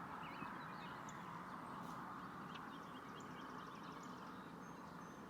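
Faint, scattered bird chirps over a steady outdoor background hiss.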